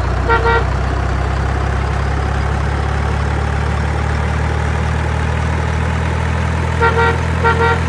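Large truck engine idling with a steady low hum. Short pitched beeps sound once near the start and twice in quick succession near the end.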